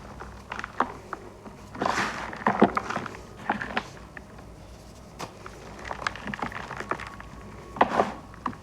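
Dyed gym chalk balls being crushed, crunching and crumbling in short clusters of sharp crackles with scattered small clicks between, loudest about two to three seconds in and again near the end.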